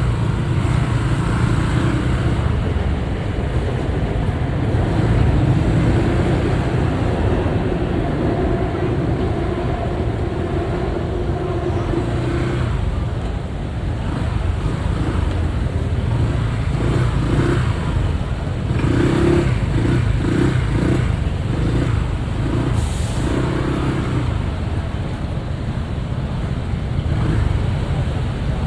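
Motorbike engine running on the move through city traffic, with road and wind noise and the engine note rising and falling.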